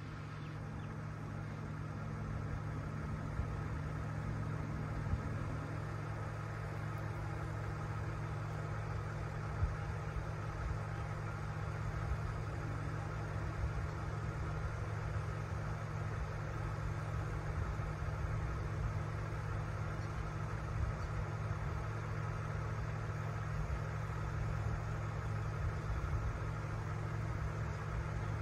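A vehicle engine idling steadily, a low even hum, with a few faint ticks.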